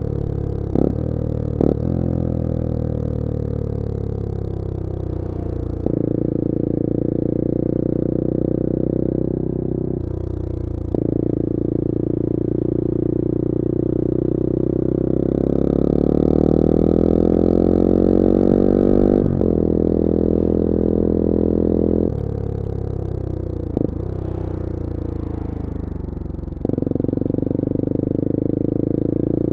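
Bullit Hero 250's CF Moto 250cc four-stroke engine under way, its note climbing and dropping with the throttle and stepping sharply several times, as at gear changes. There are a couple of short clicks near the start and one a little before the end.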